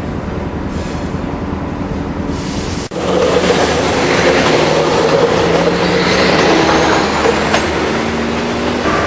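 Train sounds at a station. First a steady low rumble; then, after an abrupt break about three seconds in, louder train running noise with a high whine that rises steadily in pitch.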